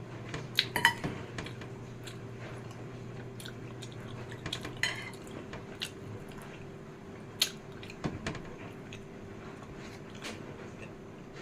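Metal cutlery clinking against a dish now and then while eating, with a quick cluster of clinks about a second in, and chewing between.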